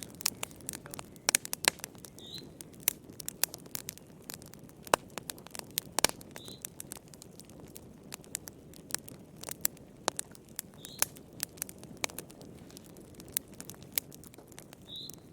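Wood fire crackling: irregular sharp pops and snaps over a low, steady hiss of burning. A short, high chirp recurs about every four seconds.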